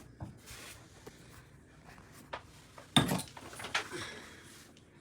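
A sharp knock or clatter about three seconds in, followed by a smaller one, over faint room tone with a few light clicks.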